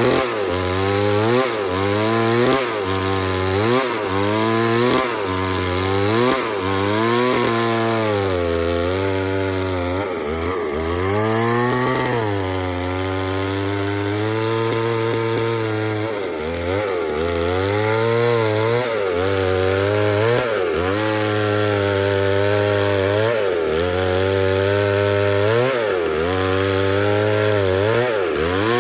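Stihl two-stroke chainsaw cutting wood. Its engine pitch dips and recovers again and again as the chain bites and the bar is worked through the cut, holding steadier for a few seconds at a time midway through.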